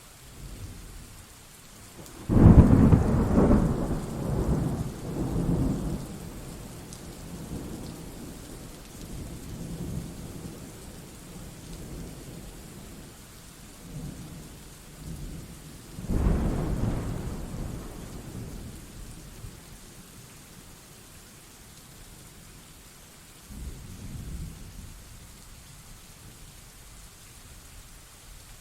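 Thunderstorm: steady rain hissing throughout, with rolling thunder. A sudden loud peal about two seconds in rumbles on for several seconds, a second loud peal comes about sixteen seconds in, and a weaker rumble follows near the end.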